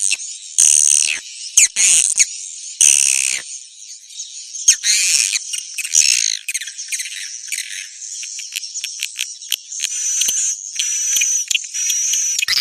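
Songbird song played as a bird-trapping lure call. It is rapid, high-pitched chirps, trills and twittering: several loud, separate bursts in the first few seconds, then an unbroken run of chatter.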